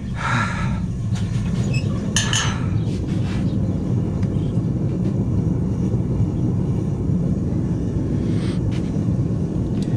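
Steady low roar of a running forge, with two short metallic clinks and scrapes in the first few seconds.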